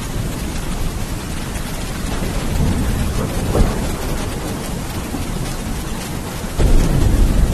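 Steady heavy rain with thunder rumbling under it. One roll of thunder swells a few seconds in and fades, and a louder one starts suddenly near the end.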